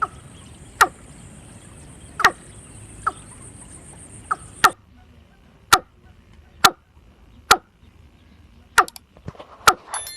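Watercock calling: a series of short, sharp notes, roughly one a second, some in quick pairs. A faint high steady tone behind them cuts off about halfway through.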